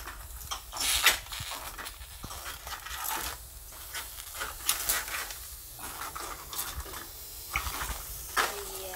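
Whole lobsters cooking in a hot pan without water: irregular crackling and sizzling, with scattered clicks and scrapes as the shells are moved about in the pan.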